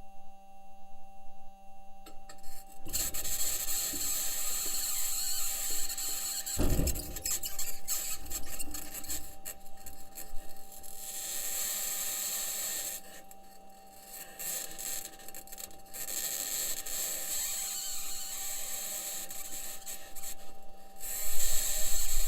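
Harsh scraping, rasping noise with squeals, over a faint steady hum. It starts about three seconds in, with a low thud a few seconds later, and eases off for a few seconds past the middle before returning.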